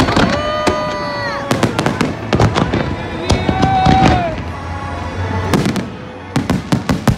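A fireworks finale: many aerial shells bursting in quick succession with sharp bangs and crackling, ending in a fast cluster of bangs.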